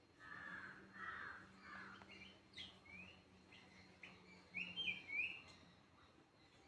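Bird calls: a few harsh, scratchy notes, then a run of short rising chirps, the loudest near the end.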